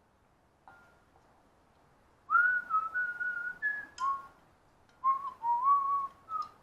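A person whistling a short melody in two phrases, the first starting a little over two seconds in and the second about a second after it ends.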